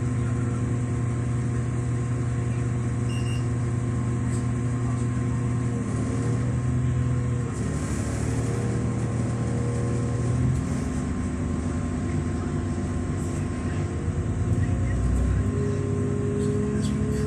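Diesel train heard from inside the carriage, running steadily: a low engine and transmission drone with several held tones that shift in pitch a few times as it moves off.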